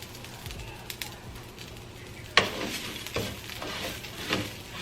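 Rice, bell peppers and onions sizzling in a hot pan while a utensil stirs in freshly added tomato paste. A sharp knock comes about halfway through, and the scraping and stirring grow busier after it.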